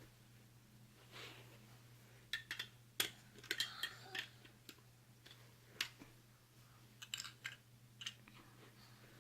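Irregular small clicks and knocks of toy train pieces being handled and fitted together, in a cluster a couple of seconds in and a few more later.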